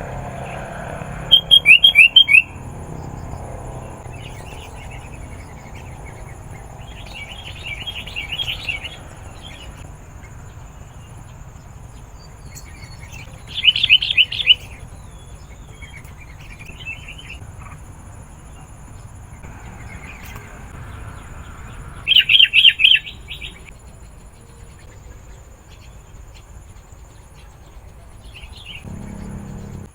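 Sooty-headed bulbul calling in three loud bursts of rapid chattering notes, with softer phrases between them.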